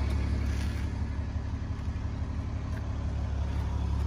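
A car engine idling steadily, a low even drone.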